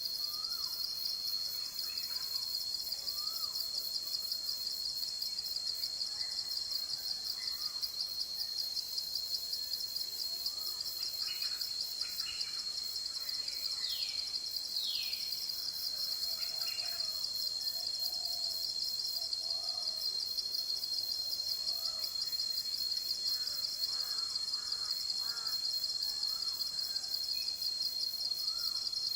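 Forest ambience: a steady, high-pitched insect chorus with a rapid pulse, under scattered bird calls. Two whistles slide downward about halfway through.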